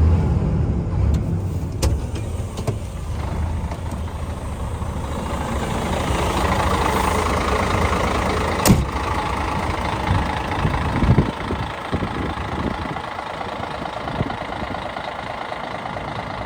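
Scania P124 tractor unit's 12-litre inline-six diesel engine running at idle, with a single sharp click about nine seconds in and a few knocks shortly after.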